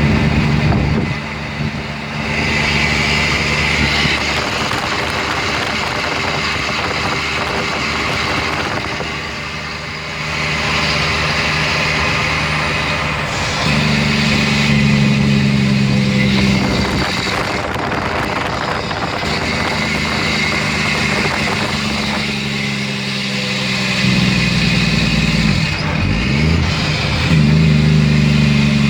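2004 Mack Granite dump truck's diesel engine running as the truck drives, its note swelling and easing several times, growing louder around the middle and again near the end.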